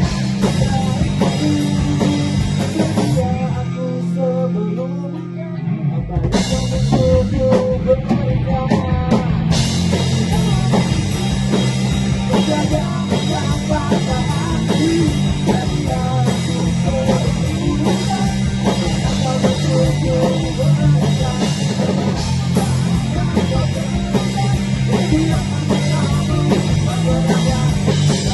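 Band playing an instrumental passage of a pop-rock song on guitar, bass and drum kit. The drums drop out about three seconds in, leaving the guitar and bass, and come back in stages from about six seconds, with full cymbals again near ten seconds.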